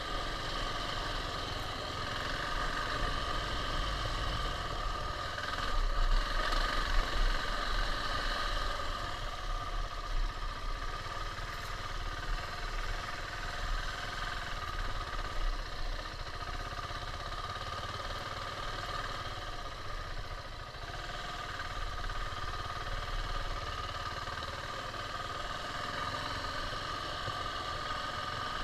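KTM 690 single-cylinder motorcycle engine running steadily, briefly louder about six to eight seconds in.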